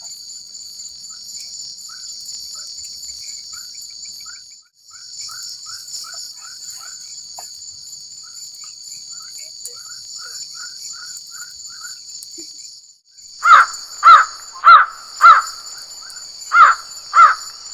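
Steady high-pitched buzzing of forest insects, cutting out briefly twice, with soft chirps repeating in the background. About thirteen seconds in, a crow caws loudly four times in quick succession, then three more times near the end.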